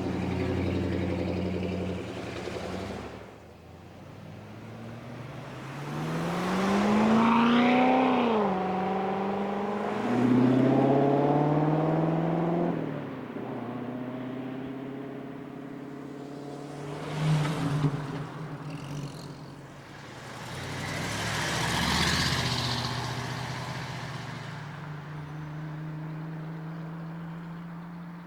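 Car engines pulling away one after another with loud exhaust, revving with rising pitch about six seconds in and again about ten seconds in. A brief sharp crackle comes about seventeen seconds in, another car swells past about twenty-two seconds in, and a steadier engine tone is left near the end.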